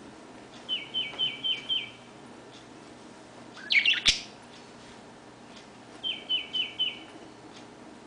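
A bird chirping in two quick runs of short down-slurred notes, five and then four. About four seconds in, a louder harsh rasping burst ends in a single sharp tap.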